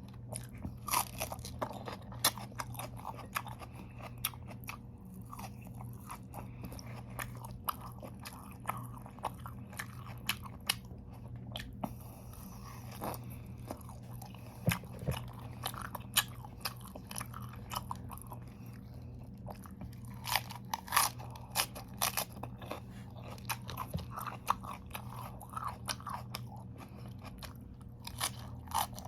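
A person chewing and biting crunchy raw vegetables, lettuce and carrots, close to the microphone: irregular wet crunches and crackles throughout, over a steady low electrical hum.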